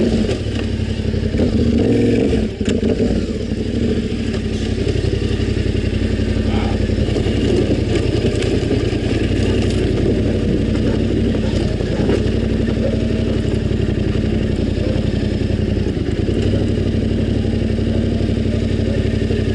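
Yamaha Ténéré 700 motorcycle's parallel-twin engine running at a steady pitch, a little louder about two seconds in.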